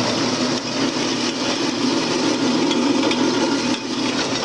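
Clipper No. 27 seed cleaner running, its electric motor driving the shaking shoe while the cleaning brushes slide back and forth. It makes a steady mechanical rubbing and rattling noise.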